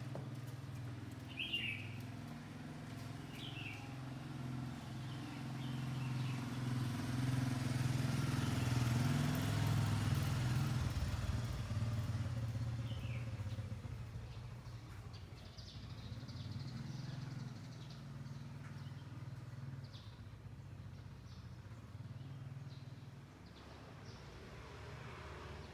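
A motorcycle engine going past slowly, growing louder to a peak about ten seconds in and then fading away. Short bird chirps sound over it, mostly in the first half.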